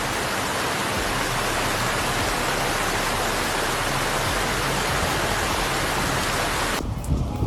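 Waterfall in full spate after heavy rain: a steady, even rush of falling water that cuts off abruptly near the end.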